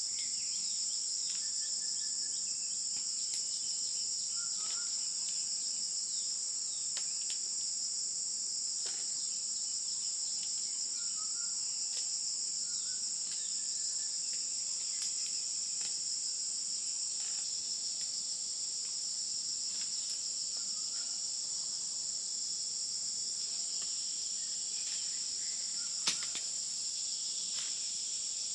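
Steady, high-pitched insect chorus, with faint bird chirps now and then and a sharp click near the end.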